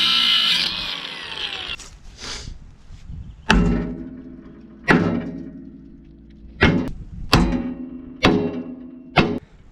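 A small sledgehammer striking a steel punch against a stuck original bolt on an old backhoe: about six heavy metal-on-metal blows at uneven intervals, each ringing out. A loud whirring at the start stops within the first second, falling in pitch as it winds down.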